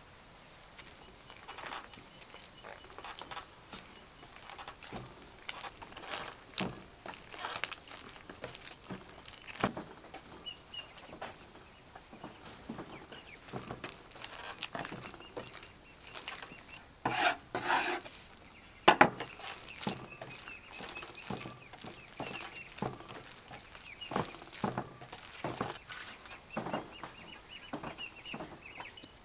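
Kitchen handling sounds: irregular clicks and knocks of utensils and dishes, with a louder cluster of knocks a little past halfway. Birds chirp faintly in the background.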